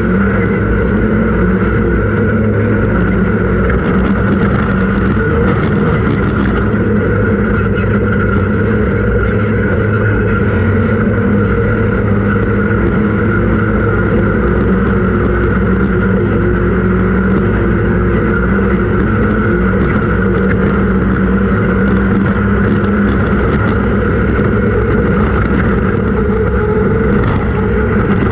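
Off-road race vehicle's engine running hard at fairly steady revs, a loud, even drone with no let-up.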